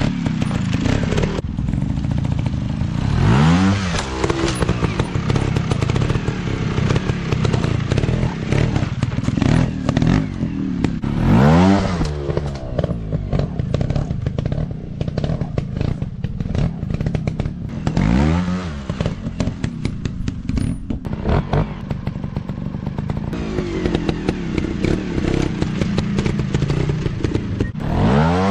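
Dirt bike engine running, revving up sharply four times, with clattering throughout.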